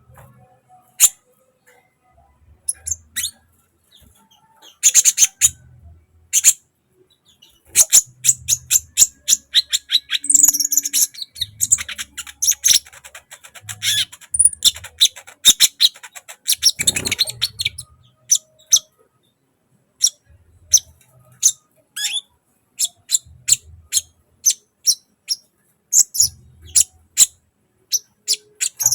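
Sunbird singing: a long series of sharp, high chirps, packed into a fast chattering run through the middle, then coming as spaced single chirps.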